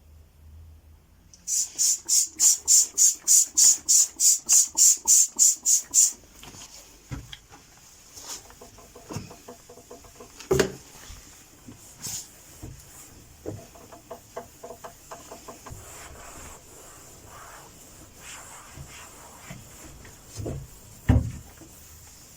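A trigger spray bottle squirted in quick succession, about sixteen times over four seconds, then a cloth wiping the dresser with scattered knocks of things being moved, the loudest near the end.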